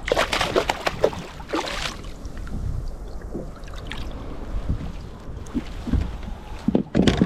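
Water sounds and knocks around a plastic fishing kayak, with a burst of splashy crackle in the first two seconds and another loud burst near the end, over a low wind rumble on the microphone.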